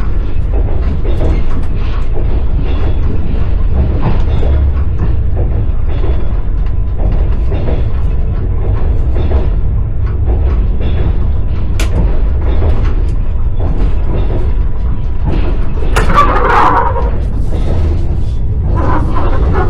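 Passenger train carriage running along the track: a steady low rumble with irregular knocks and creaks from the wheels and car body, and a louder burst of higher-pitched noise about sixteen seconds in.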